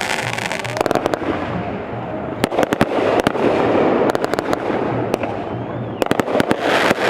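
Aerial fireworks going off: several quick clusters of sharp cracks and pops over a continuous noisy rumble of the show.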